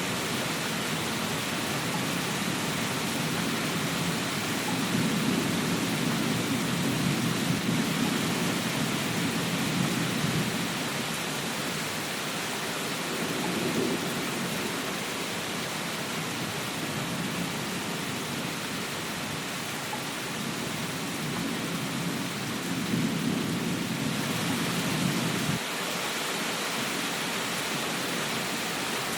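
Steady rain hiss with low rumbles that swell and fade twice; the second rumble cuts off suddenly near the end.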